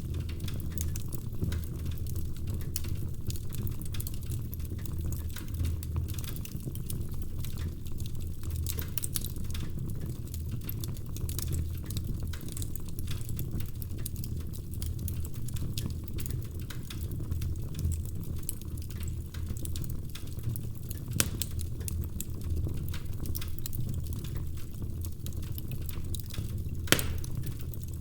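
Wood fire burning in a fireplace: logs crackling with frequent small snaps over a steady low roar of the flames, with two louder pops, one about three-quarters of the way through and a sharper one near the end.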